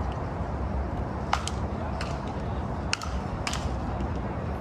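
Four sharp clicks at uneven intervals over a steady low rumble.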